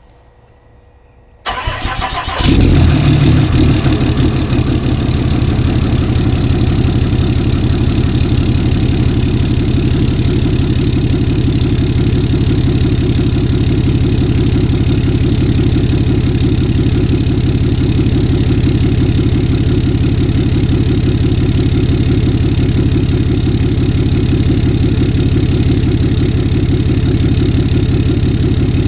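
2013 Ram 2500's 6.7L Cummins turbo-diesel inline-six cranking briefly and starting about two seconds in, then idling steadily through a 5-inch stainless steel turbo-back exhaust with a muffler.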